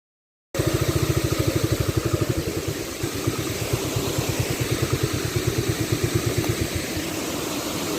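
An engine idling with a fast, even pulse, cutting in abruptly about half a second in; near the end the pulsing fades under a steady rushing noise.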